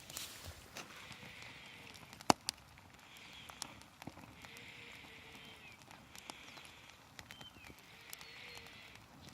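Campfire crackling, with irregular sharp pops from the burning wood, the loudest a little over two seconds in.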